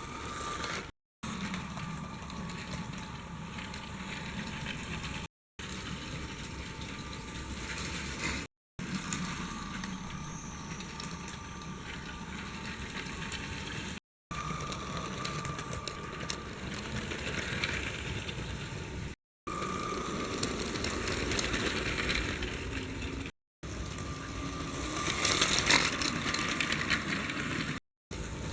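LEGO Powered UP train motor running, with the train's plastic wheels rattling along the track, in several short stretches broken by brief silent cuts; it is loudest a few seconds before the end.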